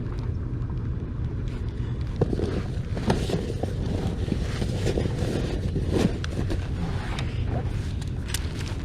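Wind rumbling on the microphone over water sounds around a small inflatable boat, with a few light knocks about two, three and six seconds in.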